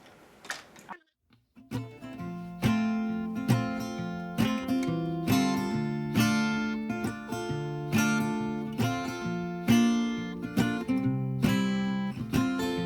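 Background music: an acoustic guitar intro with steady strummed chords, starting about two seconds in after a short silence.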